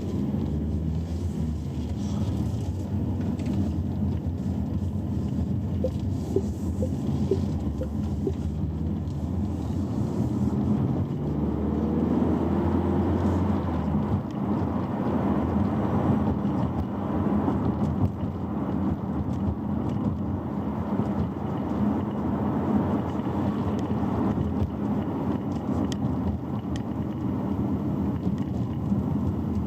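A car on the move: a steady mix of road noise and low drivetrain hum.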